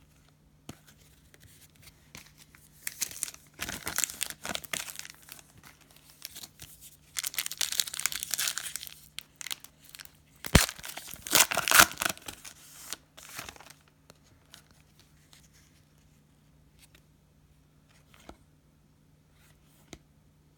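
Plastic trading-card pack wrapper being torn open and crinkled in several noisy bursts over about ten seconds, with one sharp snap about halfway through. For the rest of the time there are only faint handling ticks over a low steady hum.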